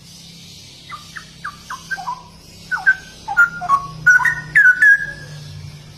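Straw-headed bulbul (cucak rowo) singing: a run of quick whistled notes, many sliding down in pitch, starting about a second in, growing louder and ending in a longer held note.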